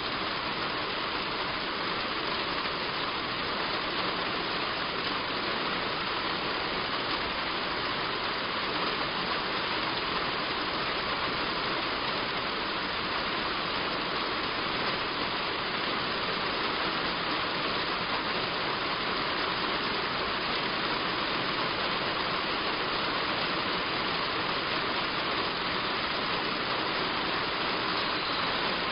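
Heavy rain falling on a roof: a steady, even hiss with no breaks.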